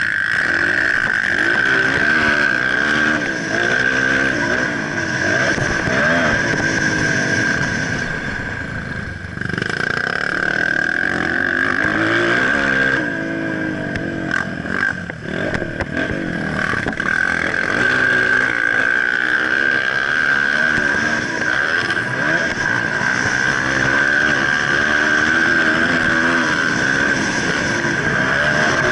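Motocross dirt bike engine revving up and down repeatedly as it is ridden, the pitch climbing and dropping with throttle and gear changes, easing off twice in the middle. A steady high whine runs over it.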